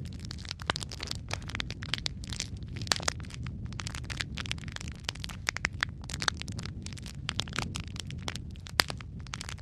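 Wood fire burning in a fireplace: dense, irregular crackles and pops over a steady low rumble of the flames, with one louder pop near the end.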